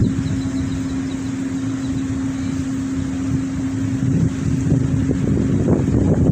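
A motor vehicle's engine running with a steady hum, which stops about six seconds in, over wind noise on the microphone.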